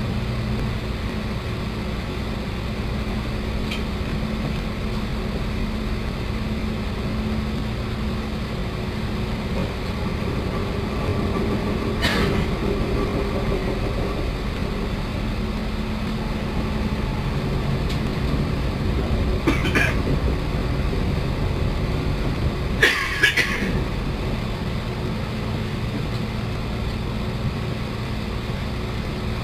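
Cabin noise of a moving passenger train: a steady rumble with a low hum, and a few brief sharp sounds, one about halfway through and two more near the end.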